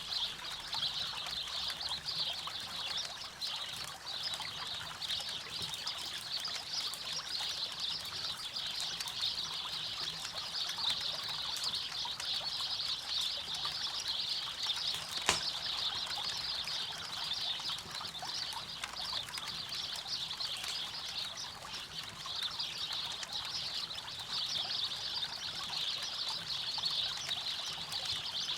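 A river flowing steadily, with a campfire crackling over it: scattered small pops and one sharp, loud pop about halfway through.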